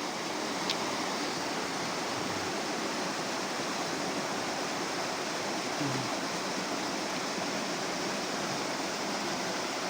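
Steady rush of fast-flowing water, an even hiss that holds level without a break.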